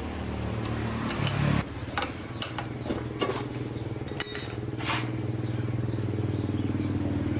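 Small motorcycle engine running steadily, with a brief rise in engine speed a little over a second in. Metal tools clink and tap several times over the engine sound.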